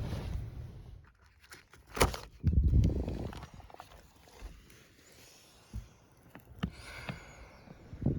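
Scattered knocks and clicks with a brief louder rustle about two and a half seconds in, like things being handled close to the microphone.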